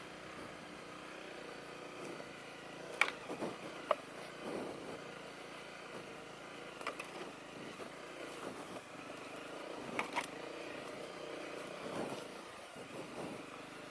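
Honda CRF250L's single-cylinder engine running at low speed over rough, rocky ground, with a few sharp knocks about three, four and ten seconds in.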